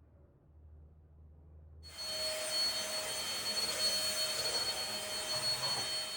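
An electric household appliance starting abruptly about two seconds in and running steadily, with a rushing hiss and a faint high whine.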